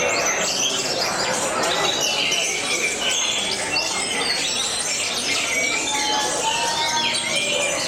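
Many caged canaries singing at once: dense, overlapping fast trills, chirps and quick pitch slides, with no pause, over a background murmur of voices.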